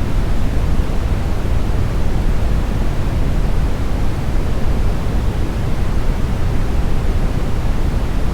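Steady synthetic brown noise, smoothed: a deep, even hiss with most of its weight in the low end and little treble, unchanging throughout.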